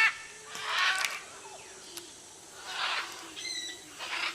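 Great green macaws calling in a string of separate harsh squawks about a second or two apart, with a clearer, more tuneful call near the end.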